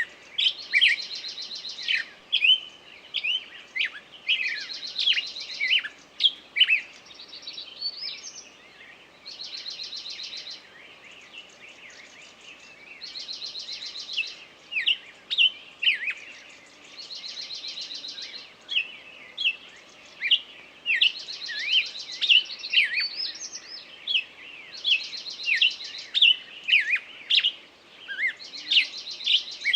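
A songbird singing: a rapid, even trill lasting about a second and a half, repeated roughly every four seconds, with many short, sharp chirps in between.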